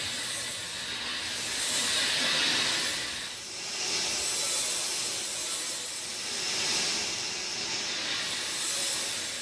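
Steady rain: a dense, even hiss that swells and eases every two to three seconds.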